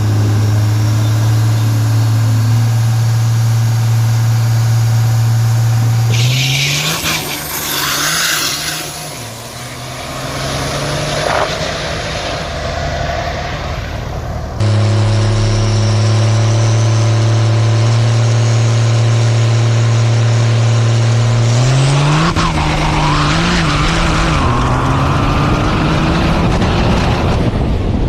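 Diesel drag-race trucks held at a steady high rev on the starting line, then launching: the engine note climbs and a rush of hiss rises as they pull away. Heard twice, with an abrupt cut between the two passes.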